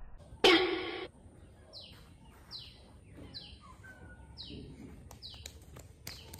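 A bird calling repeatedly with short downward-sliding chirps, about one a second. Near the start there is a louder half-second burst of rushing noise.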